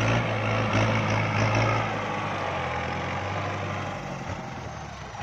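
Kubota diesel tractor engine running steadily, with a low even hum that eases a little after about two seconds.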